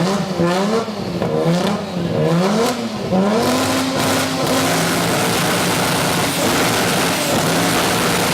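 Car engine with a loud aftermarket exhaust, revved in about four quick blips, then held at a steady higher rev with a rushing noise.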